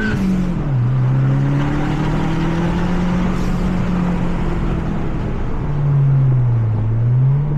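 The Mazda 3 MPS's turbocharged 2.3-litre four-cylinder, heard onboard at speed on track. The engine note drops sharply about half a second in, holds and climbs slowly for several seconds, then sags near the end and starts rising again.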